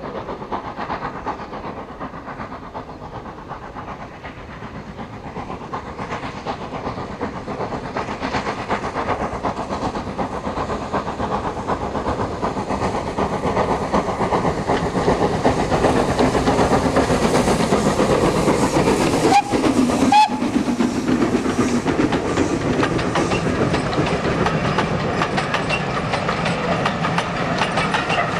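Two steam locomotives double-heading a train up a steep 1 in 49 gradient, working hard and growing steadily louder as they approach, with rapid even exhaust beats. A brief whistle sounds about two-thirds of the way through.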